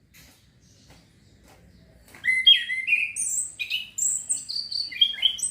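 Male orange-headed thrush singing: after about two seconds of near quiet with a few faint ticks, a loud, rapid run of varied whistled phrases that glide up and down, a male still learning its full song.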